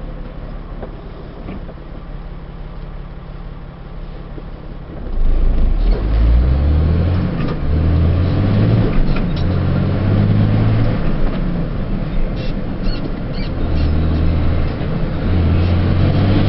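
Truck engine droning, heard inside the cab. About five seconds in, a much louder low sound comes in, its pitch moving in steps.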